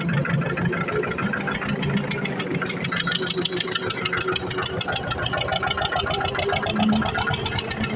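HMT 2511 diesel tractor engine running steadily under load, pulling a seven-tine cultivator through the field.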